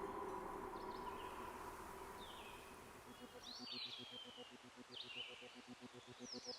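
Soft background music fades out, leaving faint outdoor nature ambience. About five short whistled bird calls sweep up and then down, over a fast, even pulsing buzz.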